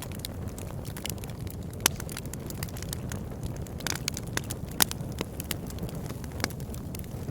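Wood fire burning in a fireplace: a steady low rumble of flames with irregular crackles and sharp pops, the loudest about two seconds in and again near five seconds.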